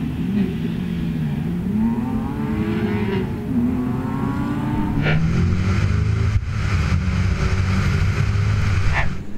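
Autocross car's engine accelerating hard, its pitch rising and falling with throttle and gear changes for the first five seconds, then held at a steady drone. Sharp clicks cut in about five seconds in and again near the end.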